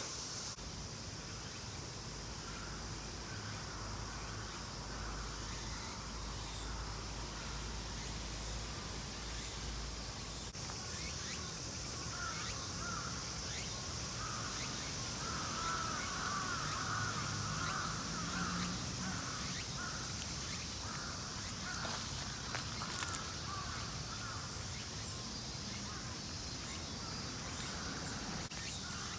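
Outdoor ambience of a steady, high-pitched insect chorus, with harsh crow caws in the middle stretch.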